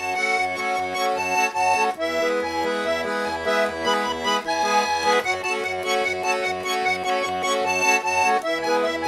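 Instrumental accordion music: a Russian garmon plays a melody over an even, pulsing bass-and-chord accompaniment, with the chords changing every few seconds.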